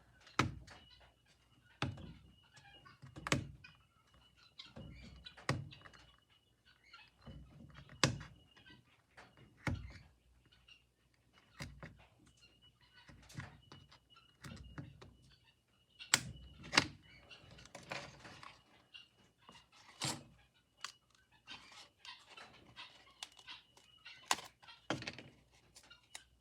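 Repeated sharp taps and thunks, irregular, about one every second or two, as a hand tool is pressed through stiff, dry cover material on a work surface to punch a perforated line.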